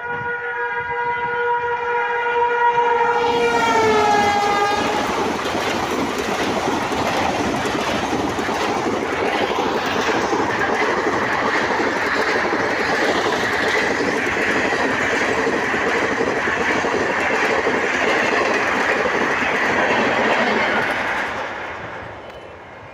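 A train horn sounds for about the first four seconds, its pitch dropping as the train goes by. The horn gives way to the loud, steady noise of the train's wheels on the rails as it runs through without stopping, fading away near the end.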